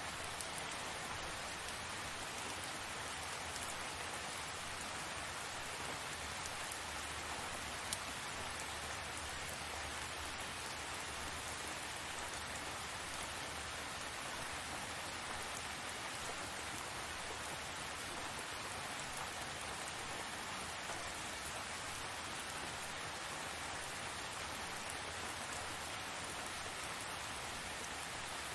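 Steady tropical rain falling, an even hiss with scattered drop ticks and one sharper tick about eight seconds in.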